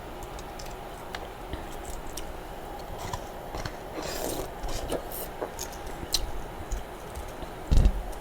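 Close-up chewing and crunching of freezer frost, with scattered sharp crackles that come thickest about halfway through. A louder dull thump comes near the end.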